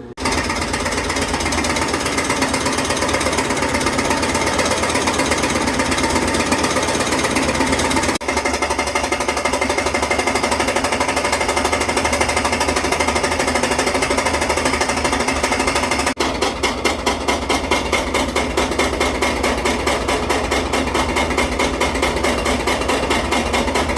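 GE GUD24ES stacked washer running with a loud, rapid, steady mechanical pulsing like a jackhammer or an MRI machine. It breaks off briefly about a third and two thirds of the way through, and the pulses come through more distinctly after the second break. The owner counts these as terrible noises and questions whether they are normal.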